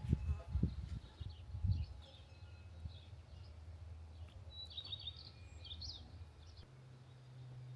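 Small birds chirping in short high calls, over a steady low hum that shifts a little higher near the end, with a few dull thumps in the first two seconds.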